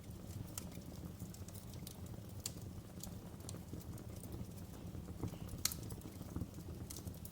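Wood fire burning in a fireplace: a low steady rumble of flames with scattered sharp crackles and pops, the loudest snap about five and a half seconds in.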